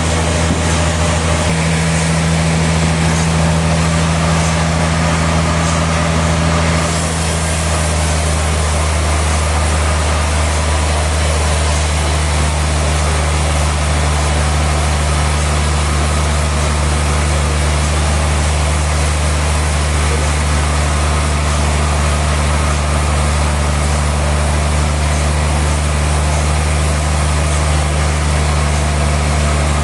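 Sawmill machinery running steadily, a constant engine-like hum with a wide hiss above it; the tone shifts slightly about seven seconds in.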